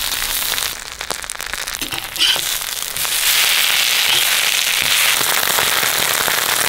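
Coconut oil sizzling and crackling with many small pops under banana-leaf-wrapped fish parcels frying on a hot flat griddle. The sizzle dips briefly, then gets louder and steadier about three seconds in.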